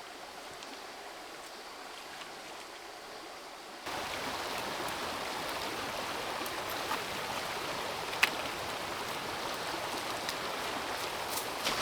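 Creek water running steadily, stepping up abruptly in loudness about four seconds in. A few sharp clicks stand out over the water later on, the loudest just past the eight-second mark.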